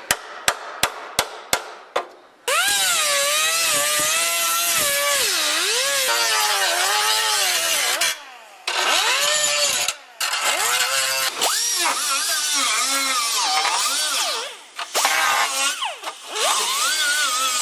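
Power grinder working rusted steel body panel, its pitch sagging and climbing as it is pressed into the metal and eased off, with a few short pauses. It opens with a quick run of sharp clicks, about three a second, before the grinder takes over about two seconds in.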